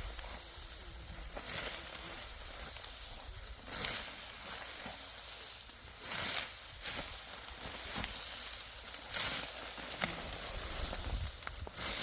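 Dry wheat stalks rustling and crackling as they are harvested by hand, with irregular sharp swishes every second or two over a steady dry hiss.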